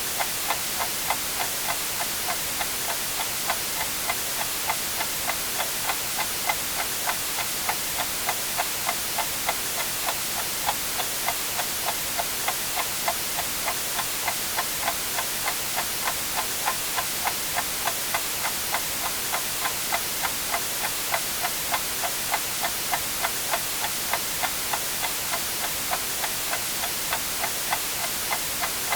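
A clock ticking steadily, about two ticks a second, over a constant bed of white noise hiss.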